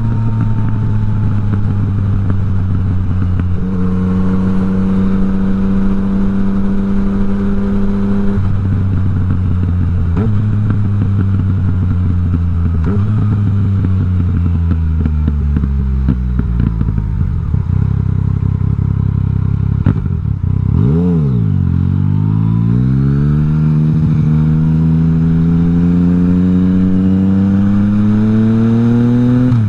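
Yamaha MT-09's three-cylinder engine riding under way, holding steady revs with a few jumps in pitch from gear changes. About midway it slows down, dips sharply and picks up again, then climbs steadily in revs through the last third as the bike accelerates.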